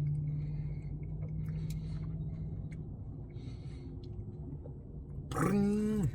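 Quiet eating sounds from a man eating soft-serve ice cream: faint clicks and soft mouth noises over a steady low hum. Near the end there is a short voiced sound.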